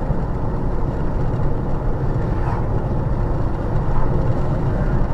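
Steady low road and engine noise of a car driving, picked up by a dash cam's microphone inside the car.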